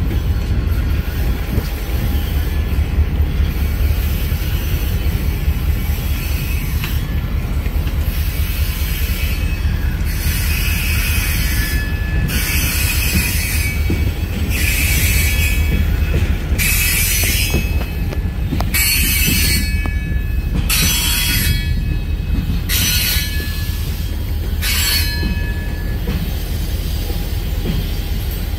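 Loaded grain-hopper freight train rolling past with a steady low rumble. From about ten seconds in until near the end, short high-pitched metallic squeals come every second or two, typical of wheel flanges squealing on the rail.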